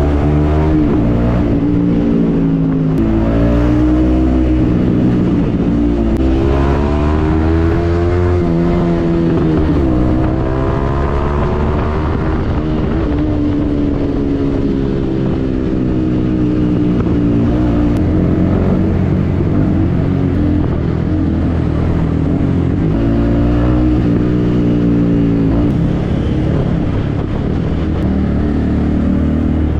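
Yamaha MT-15's 155 cc single-cylinder engine running through a Yoshimura aftermarket exhaust while riding. The revs rise and fall several times, with a steadier stretch in the middle.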